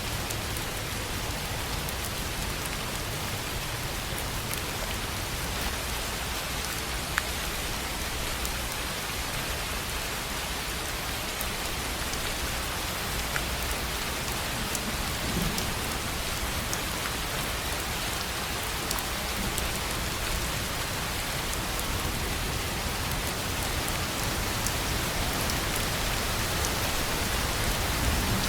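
Steady rain falling on a tin roof, an even hiss with individual drops ticking sharply here and there.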